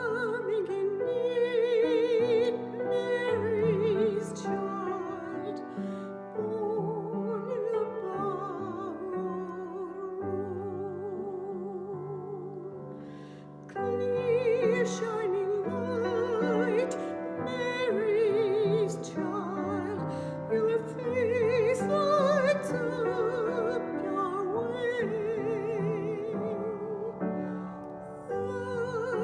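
Classical soprano singing a slow carol with wide vibrato, accompanied by piano; the voice drops out briefly about halfway through while the piano plays quietly, then comes back in.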